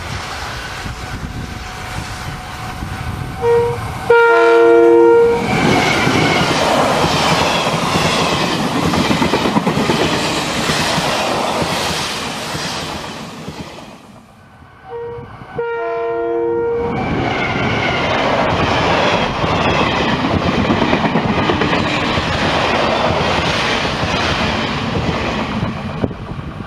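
Taiwan Railway electric locomotive hauling orange Chu-Kuang Express coaches past at speed: a short horn toot, then a longer horn blast in two notes, then the loud rumble and clatter of the train going by. A second, matching horn-and-pass sequence follows about eleven seconds later.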